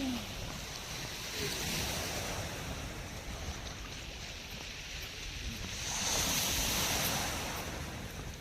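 Sea surf washing on the shore, the noise swelling twice, about a second and a half in and again around six seconds in, over a low wind rumble on the microphone.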